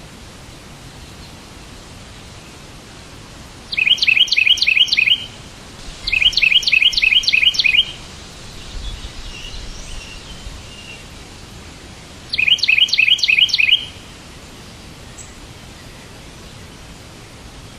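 A bird chirping in three bursts of rapid, evenly repeated notes, about four seconds in, about six seconds in and near the thirteenth second, each burst lasting a second or two. A steady background hiss runs between them.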